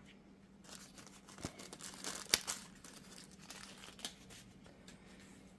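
Light handling noises while working on an axle shaft: scattered small clicks and crinkling rustle, with a sharper click a little over two seconds in, over a faint steady hum.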